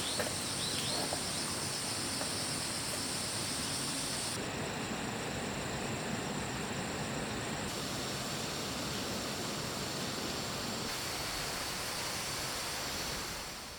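Steady rural outdoor ambience: insects droning in high, steady bands over a constant hiss, with a few short chirps in the first second. It fades out at the very end.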